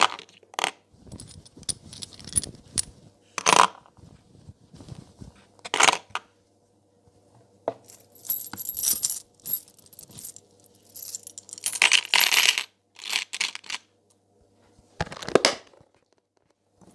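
Metal rings clinking and jingling against each other and a hard surface: scattered sharp clinks, two longer runs of rapid jingling around a third and three quarters of the way through, and a last clink near the end.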